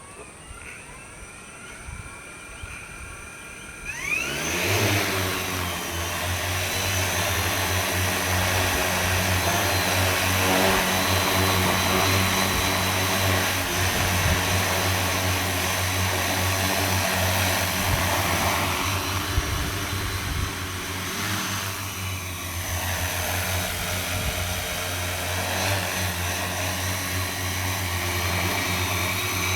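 Multirotor crop-spraying drone's motors and propellers: rising whines as they spin up, then about four seconds in a sudden jump to a loud, steady whirring hum. Around two-thirds through the pitch dips and rises again as the motor speed changes.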